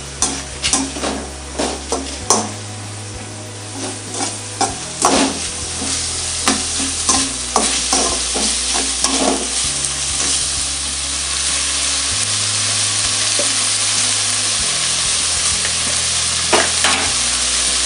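Sliced onions, green chillies and whole spices sizzling in hot oil in an aluminium kadai, with a perforated metal ladle scraping and clinking against the pan as they are stirred, mostly in the first half. The sizzle grows steadier and a little louder as the onions sauté toward soft and golden.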